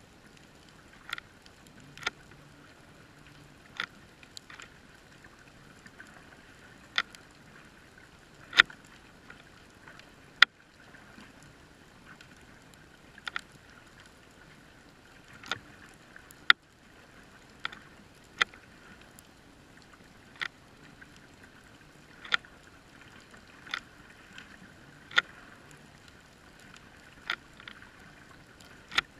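Muffled underwater sound heard through a GoPro's waterproof housing: a steady hiss with sharp, separate clicks every second or two.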